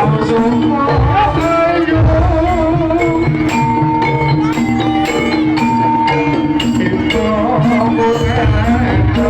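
Javanese jaranan (kuda lumping) music: a live folk ensemble with drums and other percussion under held metallic notes and a wavering melodic line.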